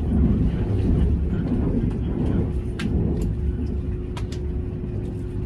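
Vehicle running: a steady low rumble with a constant hum, and a few sharp clicks around three and four seconds in.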